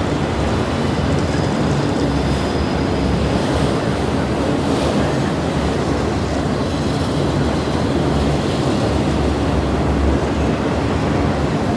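Train passing, a steady loud rumble that holds without a break.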